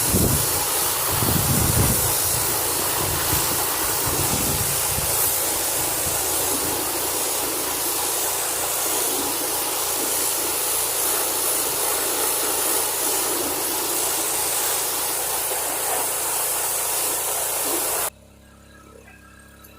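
Gas-engine pressure washer running while its spray hisses steadily at high pressure; the sound cuts off suddenly about 18 seconds in.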